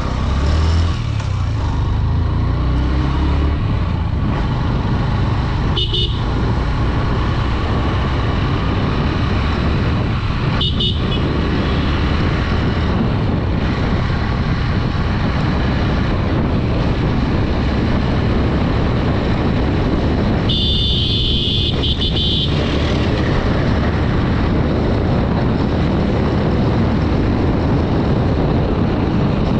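Steady low rumble of a Honda Dream 110 motorcycle on the move, its 110 cc engine running under road and wind noise. A horn beeps briefly about 6 and 11 seconds in, and gives a longer blast of about two seconds around 21 seconds in.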